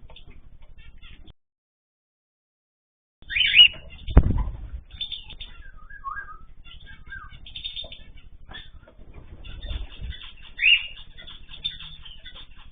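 Pet cage birds chirping in short calls, with wing flapping, rustling and a loud knock about four seconds in. About a second in, the sound cuts out completely for two seconds.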